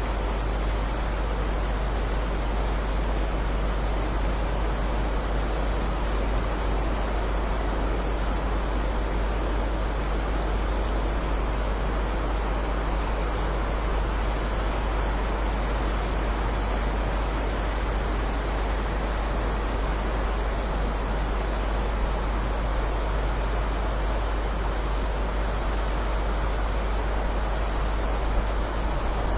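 Steady heavy rain: an even, unbroken hiss with a constant low rumble beneath it.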